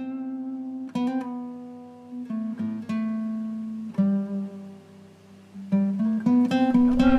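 Acoustic guitar music: plucked notes and chords ringing out and fading one after another, growing louder and fuller near the end.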